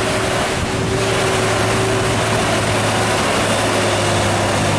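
Heavy diesel truck engine growling steadily as the truck pulls by, a constant low drone with rushing road and wind noise over it.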